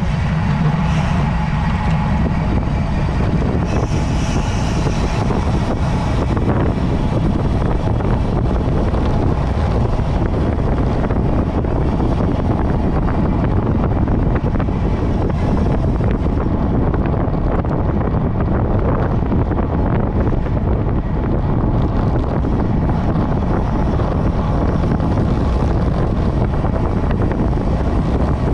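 Steady wind noise on the microphone of a camera riding with a road cyclist at speed: a loud, even rush without pauses.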